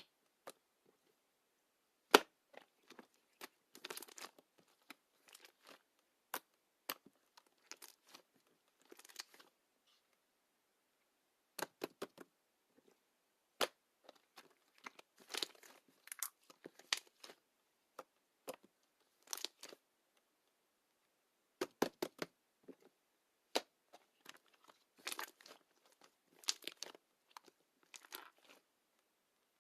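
Slime being squeezed and stretched by hand, giving sharp clicking pops and short crackly bursts with brief pauses between.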